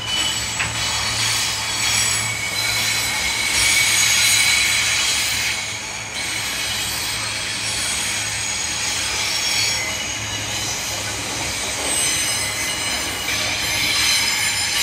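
Intermodal container freight train's wagons rolling past, their wheels squealing in thin, high, steady tones that swell and fade over a continuous running noise and a low hum.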